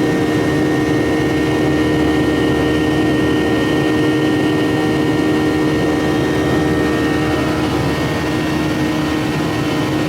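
Steady cabin noise of an airliner in flight: a constant engine hum with several held tones over a broad rushing noise.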